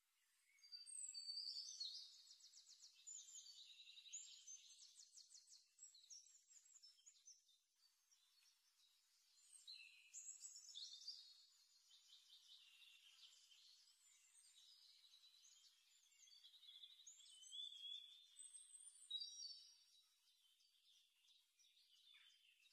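Faint birdsong: small birds singing high trills and chirps in several bursts.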